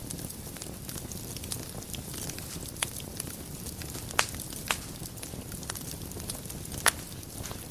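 Wood fire burning in a fireplace: a steady low rumble of flame with soft continuous crackling and a few sharper pops, the loudest about four seconds in and again near the end.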